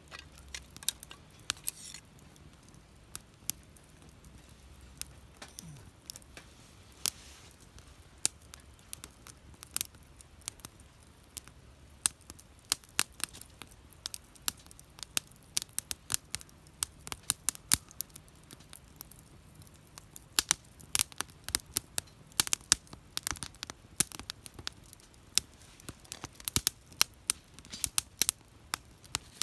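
Burning firewood crackling and popping: sharp, irregular snaps, sparse at first and coming thick and fast from about halfway through.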